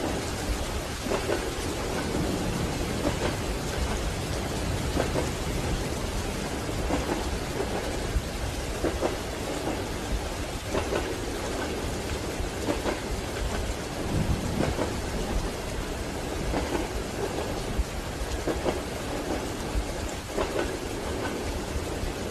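Steady rain against a train carriage window, over the low rumble of the moving train, with the wheels knocking on rail joints in a slow, even rhythm about every two seconds.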